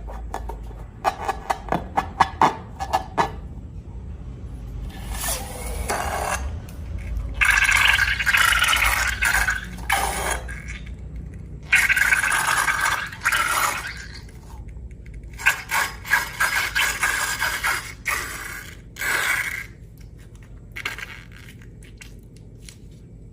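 Slime-making handling sounds: a quick run of sharp clicks, then several long bouts of scraping, each lasting a few seconds.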